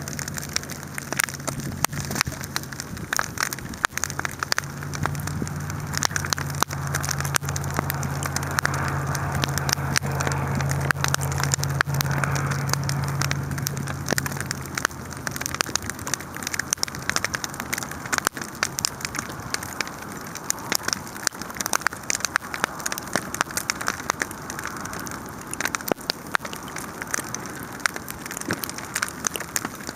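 Large wood fire burning, with a dense steady crackle and frequent sharp pops. A low steady drone runs underneath and stops about halfway through.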